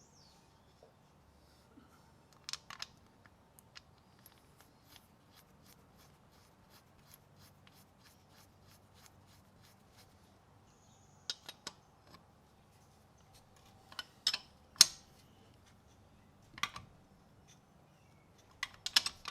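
Scattered sharp metallic clicks and clinks from handling tools and parts during an oil drain, with faint ticking in between. The loudest clicks come about two-thirds of the way through.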